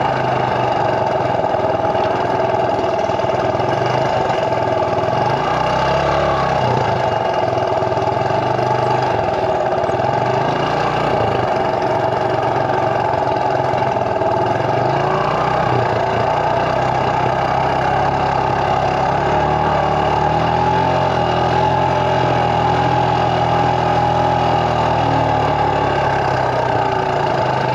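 Small motorbike engine running steadily at an even, moderate speed, its pitch drifting slightly up and down.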